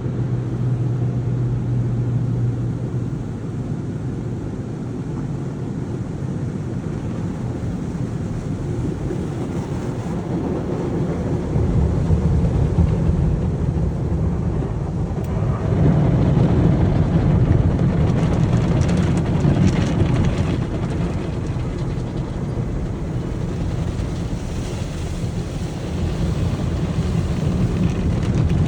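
Car wash equipment running: a steady low rumble with hissing spray that grows louder partway through.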